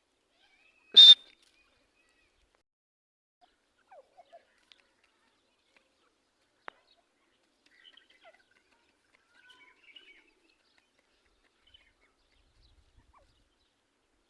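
Teetar (partridge) giving one short, sharp, loud call about a second in, followed by a few faint, scattered chirps and calls.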